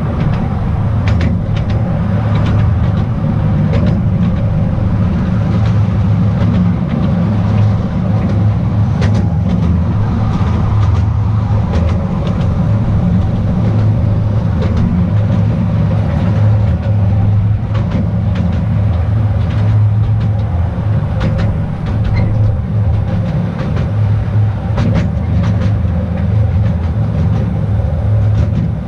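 The Petit Train d'Artouste, a narrow-gauge mountain tourist train, running along its track with a steady low rumble. Short clicks and knocks from the wheels on the rails come at irregular intervals.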